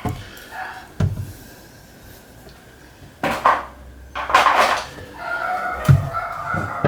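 Knocks, scraping and rattling as parts of a washing machine are handled while its gearbox is tried by hand: a few separate knocks, then a rattly scrape. Near the end a steady tone starts up and keeps going.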